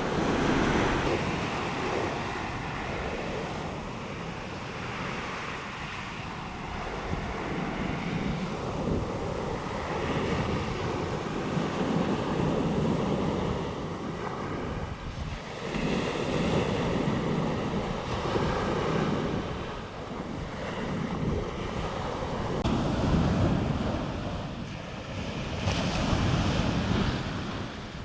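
Ocean waves washing in on a beach, swelling and easing every few seconds, with wind buffeting the microphone.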